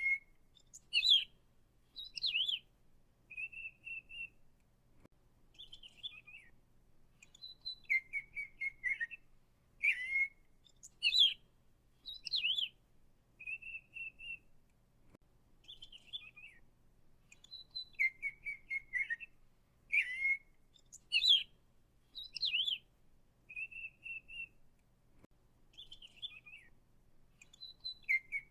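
A songbird singing short phrases: chirps, quick trills and clear whistled notes. The same sequence of phrases comes round again about every ten seconds.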